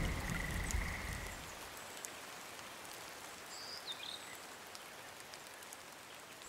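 The last ringing tones of a Balinese gender metallophone die away in the first second and a half. A steady patter of rain remains, with scattered drips and a brief bird-like chirp near the middle.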